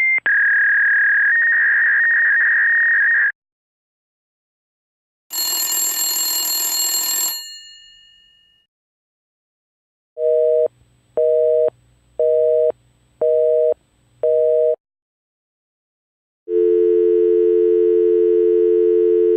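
A series of telephone line signals. First comes a steady high tone lasting about three seconds, then a short noisy burst with high ringing that fades away. Next is a North American busy signal beeping five times, half a second on and half a second off, and near the end a steady North American dial tone begins.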